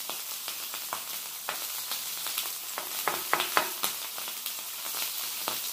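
Fried rice, steak and zucchini sizzling on a hot griddle, with a steady hiss of frying. The rice is stirred with a spoon, giving scattered sharp clicks and pops, several close together about three seconds in.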